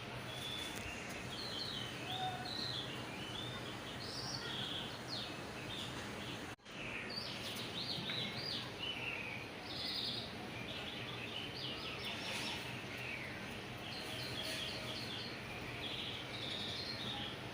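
Birds chirping and calling repeatedly over a steady low hum. The sound cuts out for an instant about six and a half seconds in.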